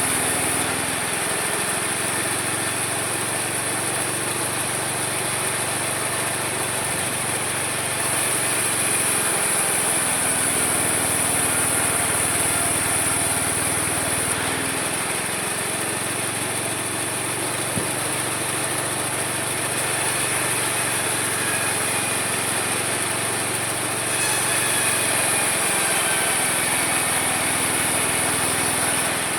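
Homemade mini sawmill running steadily with a low hum and a high whine; the whine grows stronger about 8 seconds in, eases around 14 seconds, and strengthens again near the end.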